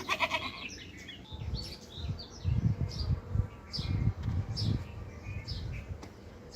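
Small birds chirping repeatedly, short high chirps about every half second. A brief pitched call comes right at the start, and a run of low thuds from about a second and a half in to near the end is the loudest part.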